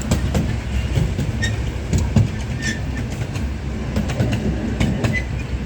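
Passenger train of a ride rumbling along its track, heard from aboard, with irregular clicks from the wheels and a few short, high wheel squeaks.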